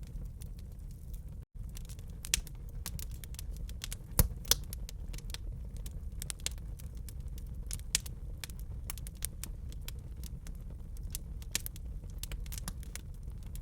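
Fire in a fireplace crackling: irregular sharp pops and snaps over a low, steady rumble, with a few louder pops about two, four and eight seconds in. The sound cuts out for a split second about a second and a half in.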